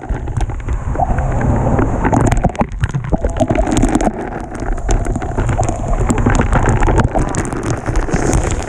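Waterfall rushing at close range: a steady, loud wash of falling water, with many short crackles and knocks on top.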